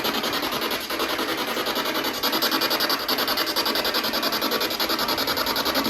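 Spirit box sweeping through radio stations: a hiss of static chopped into rapid, even pulses, about ten a second.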